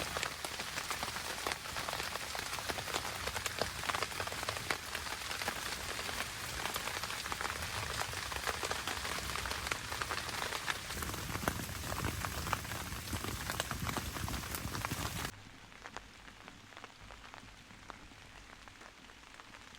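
Steady rain pattering on a surface, a dense hiss of many small drop ticks. About fifteen seconds in it cuts off abruptly to a much fainter patter.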